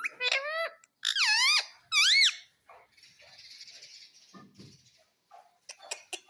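Pet parrot giving three loud squeaky calls that dip and rise in pitch in the first two seconds, followed by softer raspy chatter and a few light clicks near the end.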